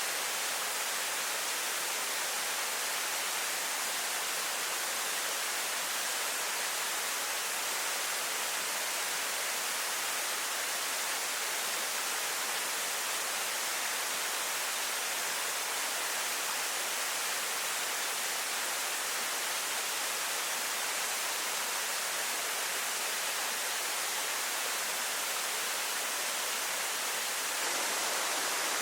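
Waterfall: a steady rush of falling water, a dense even hiss strongest in the high range, growing slightly fuller and louder near the end.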